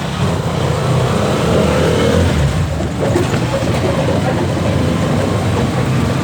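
Tosa three-wheeled cargo motorcycle riding along the highway: steady engine and road noise.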